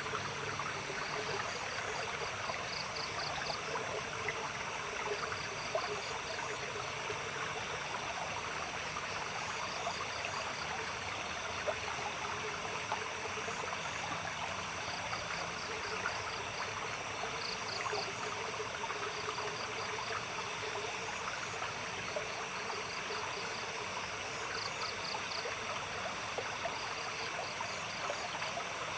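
Water running and trickling steadily, like a small stream. Over it, night insects chirp in short rapid trains every few seconds against a steady high-pitched insect drone.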